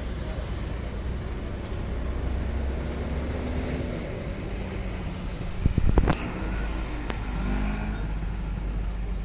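Mitsubishi Pajero Sport SUVs driving by in a convoy, a steady low vehicle rumble. A short cluster of sharp knocks comes about six seconds in and is the loudest moment, followed by a single click.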